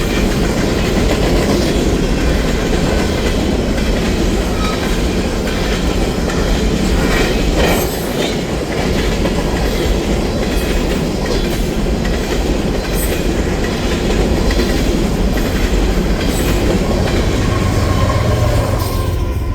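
Union Pacific freight train's cars rolling past close by: a loud, steady rumble of steel wheels on the rails.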